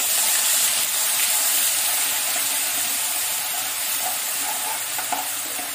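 Wet ginger-garlic-green-chilli paste sizzling loudly as it fries in hot mustard oil with cumin seeds in an aluminium kadai, stirred with a steel spoon. The hiss eases a little toward the end.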